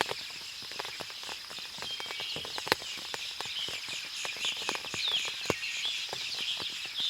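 Forest after rain: water dripping from the trees in many irregular ticks, with several birds chirping and a steady high insect drone.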